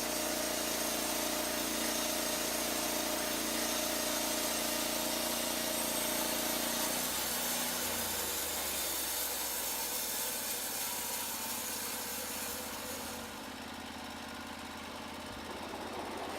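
Portable band sawmill running: a steady engine note with a hiss of the blade and cut over it. Its pitch shifts about seven seconds in, and the high hiss falls away near the end.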